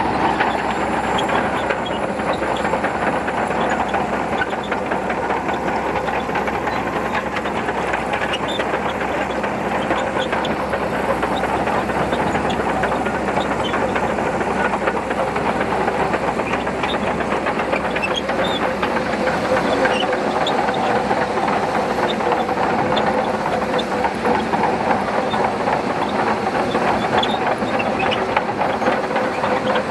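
Shantui DH17C2 crawler bulldozer working steadily: a diesel engine's constant drone under a dense, continuous rattle of clanking tracks.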